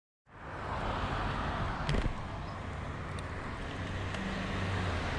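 Road traffic noise with wind on the microphone and a low steady engine hum, cutting in abruptly after a moment of silence; a single sharp knock about two seconds in.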